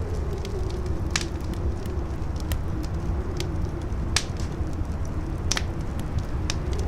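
Campfire crackling, scattered sharp pops with the loudest a little after one second, about four seconds and five and a half seconds in, over a deep steady rumble and a low wavering howl of wind.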